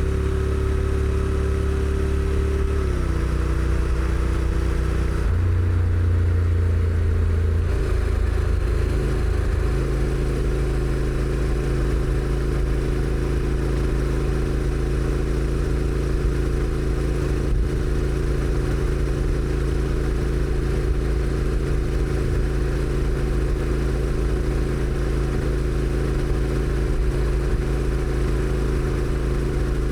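Honda NC750X DCT's parallel-twin engine through its stock exhaust, running under way as the bike rides. The engine note drops a few seconds in and again a little later, then holds steady at cruise from about ten seconds on.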